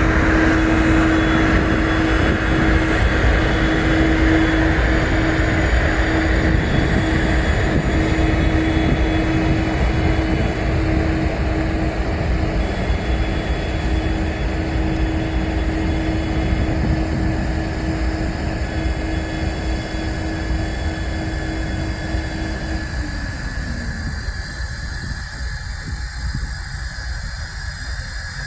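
Diesel locomotives running together in a steady, heavy hum with a steady tone that dips in pitch and fades about 23 seconds in, the whole sound slowly getting quieter. The locomotives are building air pressure for the train's brakes.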